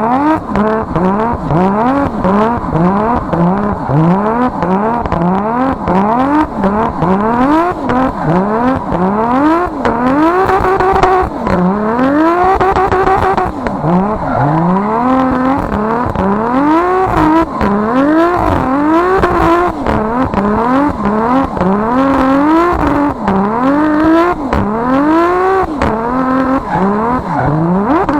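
Nissan Skyline R33's RB26 twin-turbo straight-six revving hard again and again, its pitch climbing and dropping back every second or two, as in a car being drifted on the throttle.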